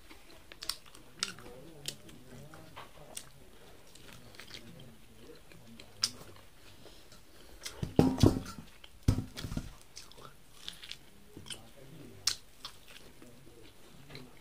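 Chewing and biting into maize kernels on the cob: scattered crisp clicks as kernels are bitten and chewed, with a couple of louder dull thumps about eight and nine seconds in.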